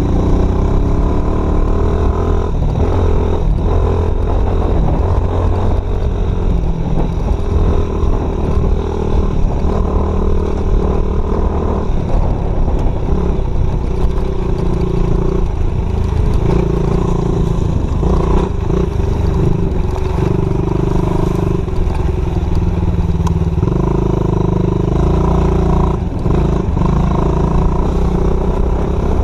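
Dirt bike engine running continuously while riding, its note rising and falling as the throttle changes.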